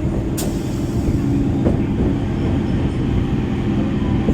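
EMU local train running, heard from on board: a steady rumble of wheels on the track with a faint steady hum, and a couple of sharp clicks in the first two seconds.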